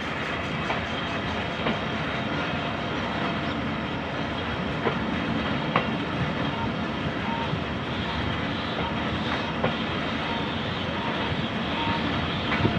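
Train running along the track, heard from aboard: a steady rumble and rush of the moving coach, with a few sharp clicks of the wheels over rail joints.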